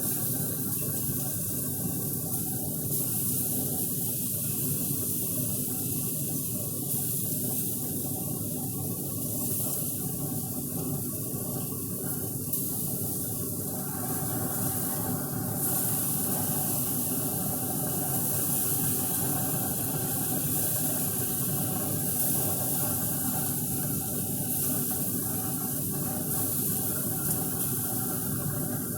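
Marinated steaks sizzling on a hot grill grate: a steady hiss that goes on unbroken.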